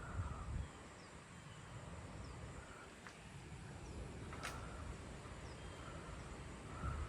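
Gusty storm wind rumbling on the microphone, swelling briefly near the start and again near the end, with faint repeated chirps over it and a single sharp click about four and a half seconds in.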